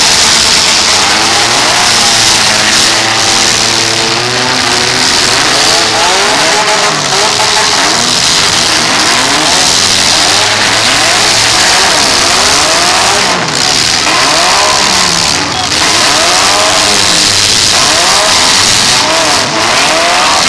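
Several demolition-derby compact cars' engines revving hard at once, their pitch rising and falling over and over, with a few sharp knocks from cars hitting each other around the middle and near the end.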